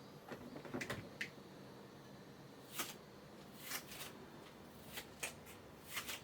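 Kittens at play: a quick run of short rustles and taps in the first second, then single brief rustles about once a second.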